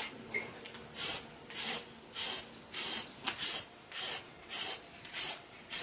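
Repeated hand scraping strokes over a surface, a little under two a second, each a short hissing rasp.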